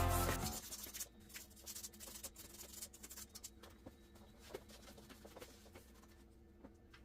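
A louder sound dies away in the first half second, then faint, scattered scratching and light clicks, typical of rubbing corroded metal by hand with sandpaper.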